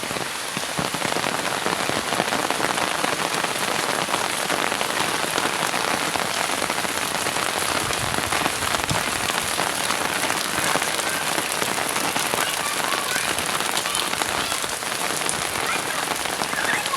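Heavy downpour of rain: a steady, dense hiss of countless drops pattering on surfaces.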